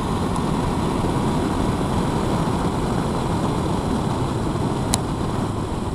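Motorcycle running at a steady speed on the road, with a short click about five seconds in.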